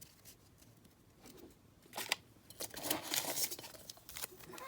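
Faint crinkling and snipping of a baseball card pack's wrapper being opened. It starts about two seconds in, after a near-quiet start.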